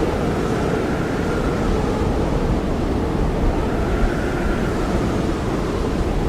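Blizzard wind blowing steadily: a deep, even rush with a faint howl that rises and falls slowly.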